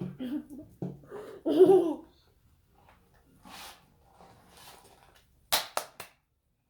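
A child laughing and babbling, loudest in the first two seconds, then a few breathy sounds. Three sharp clicks come close together about five and a half seconds in.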